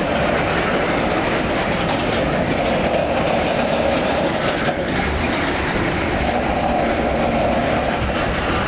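Freight train's covered hopper cars rolling past close by: a steady noise of steel wheels on rail.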